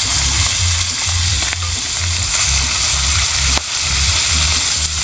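Catfish frying in hot oil in a pan on a portable gas stove: a steady sizzle with oil spattering, as a metal spatula turns the fish, with one sharp tap about three and a half seconds in. A low uneven rumble runs underneath.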